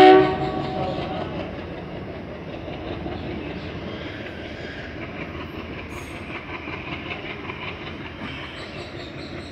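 Indian Railways passenger coaches rolling past, a steady rumble of wheels running on the rails. A train horn blast cuts off at the very start.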